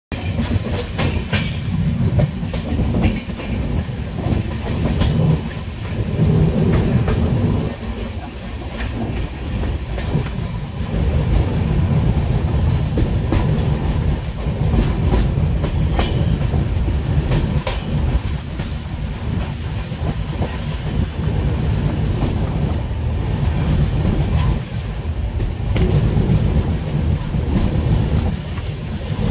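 Jnaneswari Express passenger coach running along the track, heard from the moving train: a steady, heavy low wheel-and-rail rumble with scattered sharp clicks.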